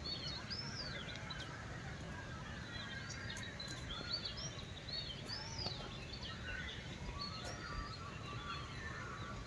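Several birds chirping and calling in short, overlapping notes, over a faint steady background hiss.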